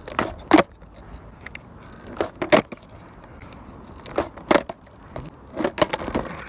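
Skateboard clacking in pairs of sharp clicks about every two seconds, the wheels rolling over joints in the pavement, over a steady low rumble.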